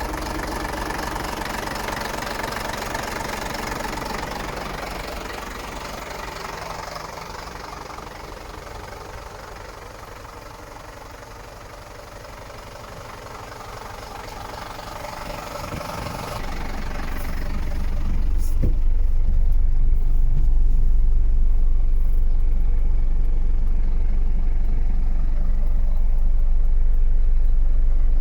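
Scania P93.250 truck's inline-six diesel engine running at idle. About two-thirds of the way through it grows louder and deeper, becoming a heavy, steady low rumble.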